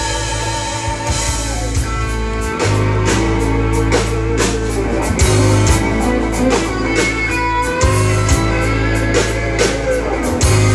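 Instrumental band music with no singing: a held chord, then drums and bass come in with a steady beat and guitar lines about two and a half seconds in.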